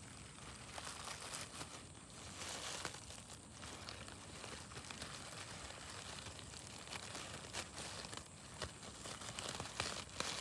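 Irregular crinkling and rustling close to the microphone, with many small crackles: handling noise, like a plastic bag or clothing rubbing against the recorder.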